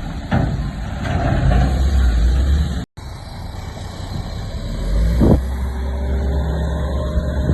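Heavy diesel earthmoving machinery running steadily under load, with a sharp clank or knock about half a second in and again about five seconds in. The sound cuts out for an instant about three seconds in.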